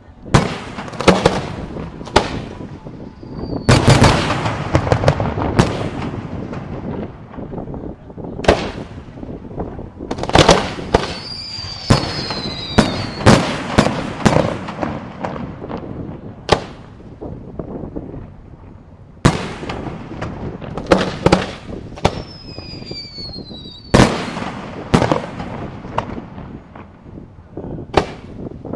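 Aerial fireworks shells and salutes bursting in loud, sharp bangs at uneven intervals, several in quick succession around the middle, some followed by a rumbling echo. A few faint falling whistles are heard between the bursts.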